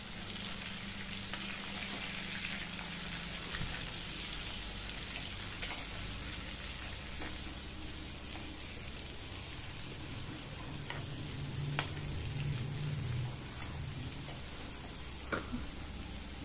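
Masala-stuffed tender brinjals frying in hot oil in a kadai: a steady sizzle, with a few light clicks.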